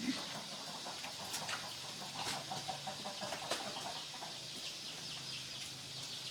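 Farm animals calling faintly, with scattered small clicks and taps.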